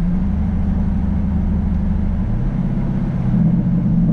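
Car engine idling steadily with a low rumble, its tone shifting slightly about two seconds in.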